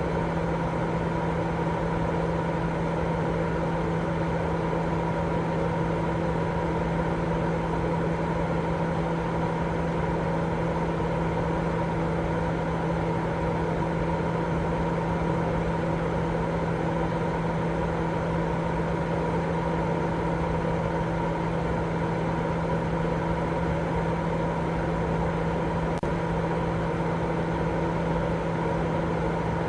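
Continuous white noise for baby sleep: an even, unchanging noise weighted toward the low and middle range, with a constant low hum running through it.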